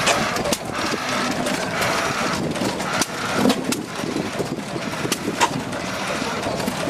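Hit-and-miss stationary engines running, with irregular sharp pops and clicks over a steady mechanical clatter.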